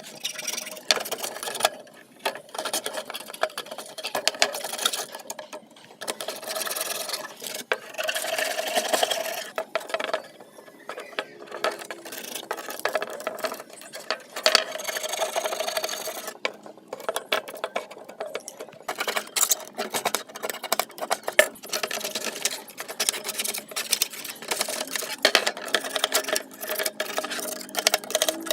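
Rapid mechanical clattering and scraping of hand or power-tool work in a workshop, coming in stretches of a few seconds with short breaks.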